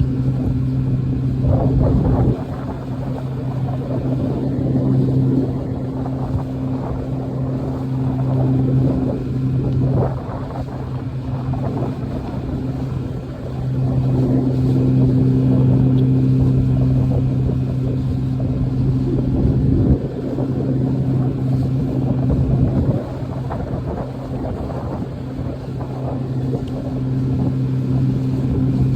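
Boat engine running at a steady speed, a constant low hum with rushing noise over it.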